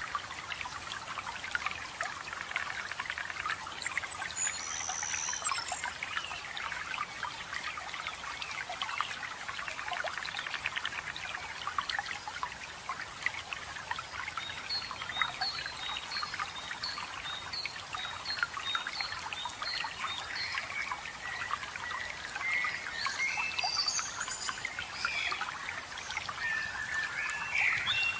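Running water of a waterfall trickling and splashing steadily, with forest birds calling over it. There is a brief high call early, then a run of about a dozen short, evenly spaced notes about halfway through, and busier, more varied song in the last third.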